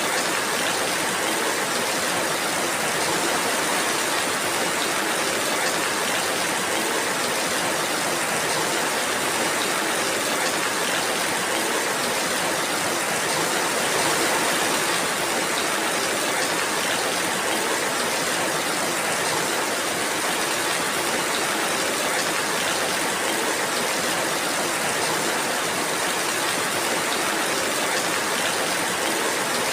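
Steady rainfall, an even hiss with no single drops standing out and no change in level.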